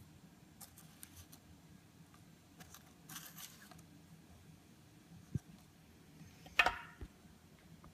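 Hand handling a wooden ring on a sheet of paper: faint paper rustles and light taps over a low room hum. The loudest is a sharp knock and rustle as the ring is picked up near the end, followed by one more soft thump.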